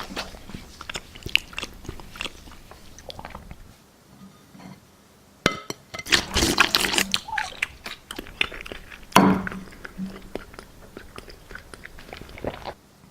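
A person biting into and chewing dry floral foam, with crisp crunching and crackling. The crunching is loudest about six to seven seconds in and again about nine seconds in.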